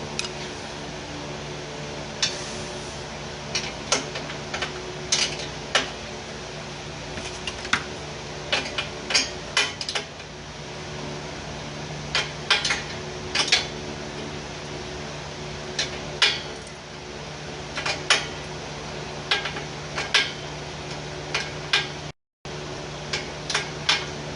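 Irregular sharp metallic clinks and clanks, like tools or metal parts being handled, over a steady mechanical hum.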